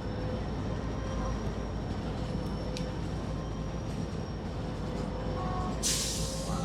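Passenger train rumbling steadily along the rails, heard from on board a coach, with a faint steady high whine over it. A short, loud burst of hiss comes near the end.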